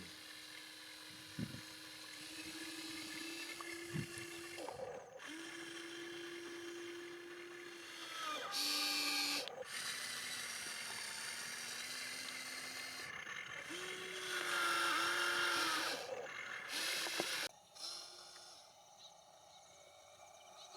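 Small electric motors and gearboxes of RC construction models whining as they drive and work, the pitch stepping up and down, with louder, higher whines about nine seconds in and again around fifteen seconds in. The sound breaks off abruptly several times.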